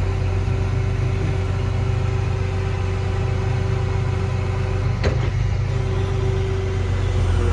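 Excavator's diesel engine running steadily at an even speed, with a single sharp click about five seconds in.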